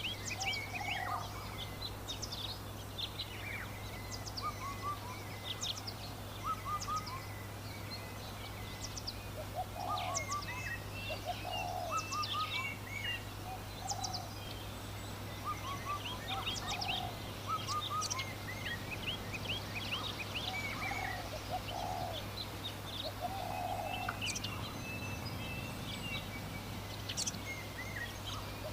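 Birds calling in a rural summer ambience: many short, high chirps from small birds, with lower calls repeating every second or two. A steady low hum runs underneath.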